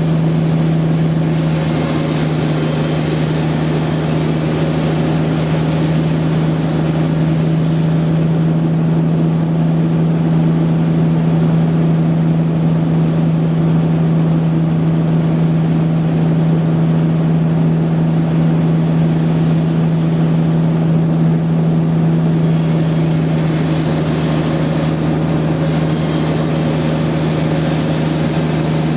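Sawmill machinery running steadily, a loud, even motor hum with no change in load.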